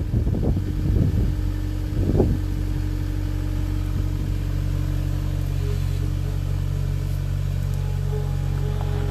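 Skid steer engine running at a steady speed, with a few short louder noises in the first two seconds.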